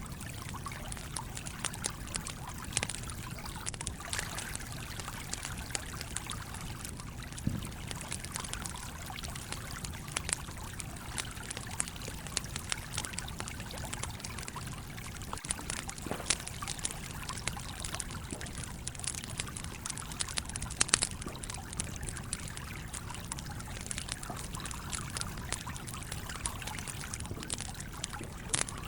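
A stream flowing steadily under a campfire crackling, with many small ticks and a few sharper pops from the burning wood.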